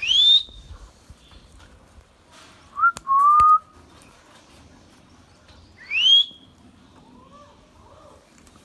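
Indian ringneck parakeet whistling: three loud, clear whistled calls, the first and last sweeping up in pitch, the middle one lower and held briefly about three seconds in, followed by a few faint soft chirps.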